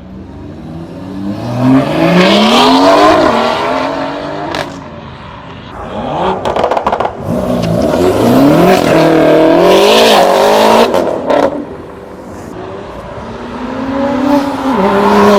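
Cars pulling out and accelerating hard one after another, engines revving up through the gears in rising, stepped climbs. A few sharp cracks come between the runs, and another engine holds a steady rev near the end.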